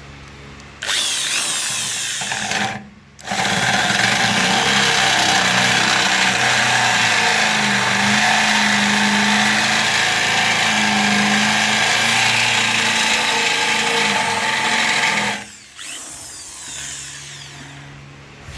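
A power tool running at full speed in two runs: a short burst of about two seconds, then, after a brief stop, about twelve seconds of steady running before it winds down.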